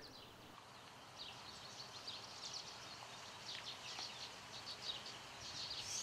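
Faint garden birds chirping, many short high chirps scattered irregularly from about a second in, over a quiet outdoor background hiss.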